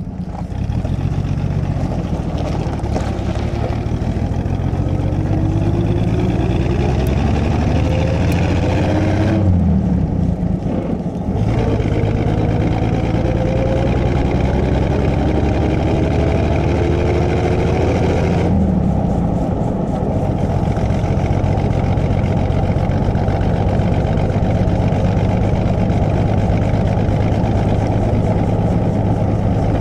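Cabin sound of a 1937 Plymouth's flathead straight-six under way: engine speed climbs, drops off sharply about nine seconds in, climbs again, drops off a second time, then runs steady.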